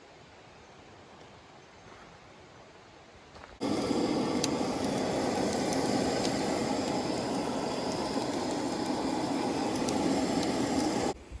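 A faint hiss, then, after an abrupt cut about three and a half seconds in, a loud steady rushing noise with scattered small crackles, which cuts off abruptly near the end.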